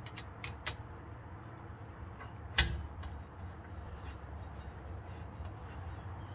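A few light metallic clicks in the first second and one louder knock about two and a half seconds in, from metal parts and tools as the rear brake caliper is swung back into place and its guide pin bolt fitted, over a low steady hum.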